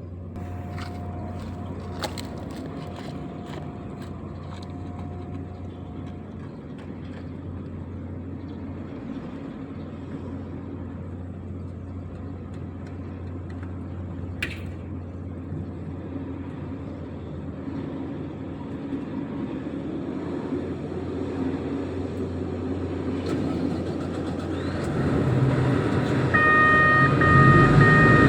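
A heavy diesel engine of container-handling equipment runs steadily and grows gradually louder as it draws near. Near the end a steady high tone with beeping joins it, like a vehicle's warning alarm.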